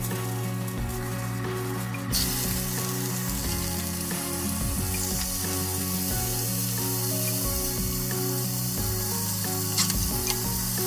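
Squid pieces frying in hot oil in a frying pan, the sizzle starting suddenly about two seconds in and then holding steady.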